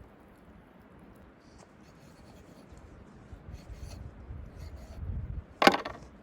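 Quiet handling and rubbing noises with faint clicks, then one sharp knock about five and a half seconds in.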